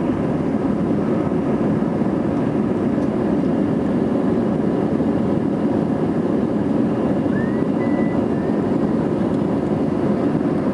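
Airbus A320 jet engines and airflow heard as a steady, even noise from inside the passenger cabin during take-off climb. A faint short tone rises briefly about seven seconds in.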